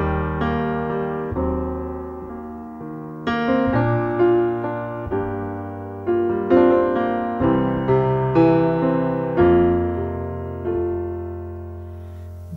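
Solo piano music: a slow, gentle passage of chords and single notes, each struck and left to ring and fade.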